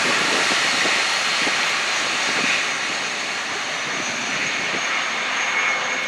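Airbus A350 jet airliner's twin Rolls-Royce Trent XWB turbofans during a display flypast: a steady rushing jet noise that slowly eases off, with a thin high whine coming through near the end.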